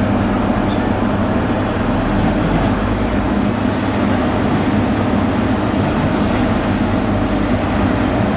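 Heavy road-construction machinery running steadily: an even, low engine drone with no change in pace.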